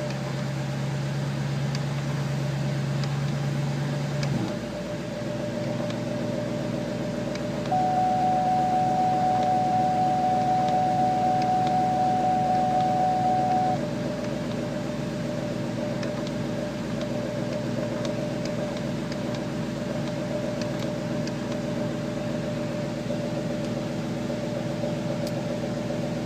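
2003 Ford Mustang Mach 1's 4.6-litre DOHC V8 idling steadily, heard from inside the cabin. A steady high tone sounds over it for about six seconds in the middle.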